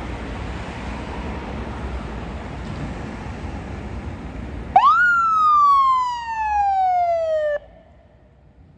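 A fire department emergency vehicle's electronic siren gives one wail about five seconds in, rising quickly and then falling slowly before cutting off abruptly. Before it there is a steady rumbling noise.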